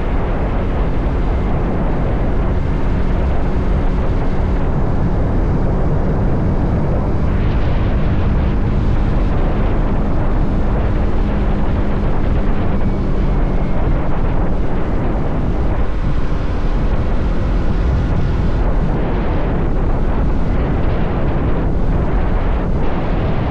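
Motorcycle engine running steadily at cruising speed, mixed with wind rushing over the microphone.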